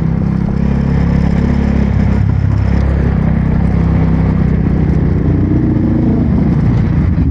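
Motorbike engine running while being ridden, its note climbing a little past halfway and dropping near the end as the speed changes.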